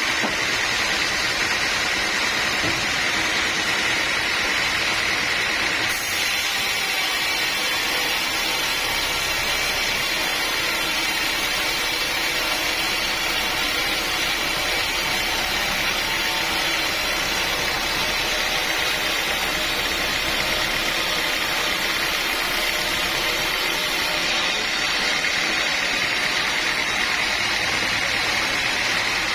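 Sawmill saw running steadily, an unbroken mechanical noise with a steady whine, as teak logs are sawn.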